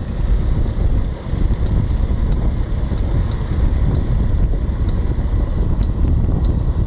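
Ford Fiesta 1.6 on the move: a steady road and wind rumble, with a faint, light click repeating about once or twice a second. The owner hears the click from the right rear wheel area, and a change of tyres has not cured it.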